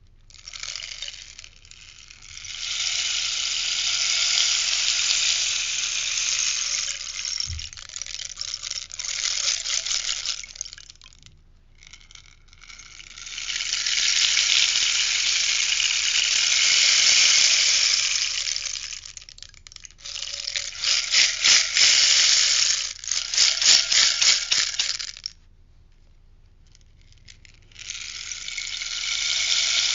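Rainstick being tipped over and over: long cascades of pellets pattering down the tube, each swelling and fading over several seconds. About two-thirds of the way through comes a stretch of quick, separate rattling strokes, then a short lull before another cascade begins.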